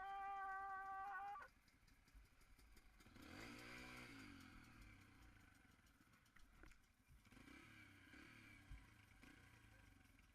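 Faint, distant dirt-bike engine revving up and falling back about three to five seconds in, after a short steady high-pitched tone that cuts off in the first second and a half; otherwise near silence.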